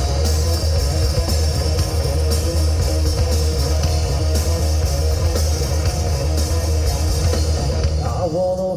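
Live rock band playing an instrumental passage: electric guitars, bass guitar and drum kit together at full volume. About eight seconds in, the heavy bass and drums drop back.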